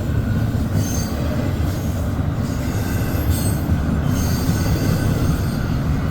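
Intermodal freight train's loaded container cars rolling past: a steady, loud rumble of steel wheels on rail. Brief high wheel squeals come about a second in and again around three and a half seconds.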